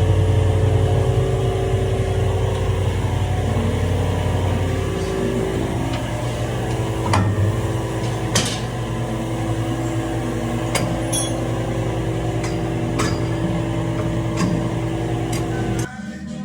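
A steady machine hum runs under scattered sharp metal clinks and knocks, as of tools on the truck's rear suspension parts. The hum cuts off suddenly near the end.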